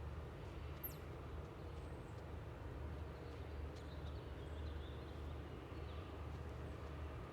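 Steady low hum of industrial machinery at a pharmaceutical plant, the noise complained of as pollution, with a few faint bird chirps above it.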